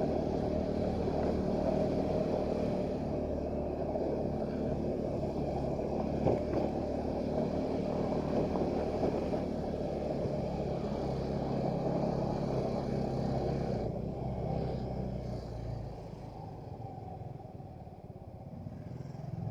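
A motorcycle engine running steadily while ridden. It gets quieter for the last few seconds.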